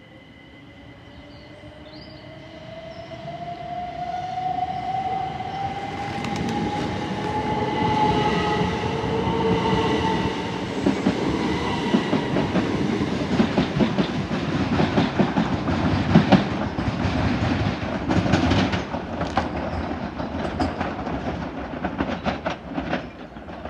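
Class 375 Electrostar electric multiple unit pulling away: its traction motor whine rises steadily in pitch over the first ten seconds as it accelerates. The wheels then clatter over the rail joints, growing louder as the carriages pass.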